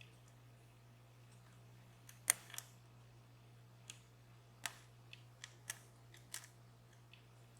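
Small sharp metallic clicks, irregular and spaced out, from a lock pick and tension wrench working the pins of a DOM Plura lock; the loudest comes about two seconds in. A faint steady low hum lies beneath.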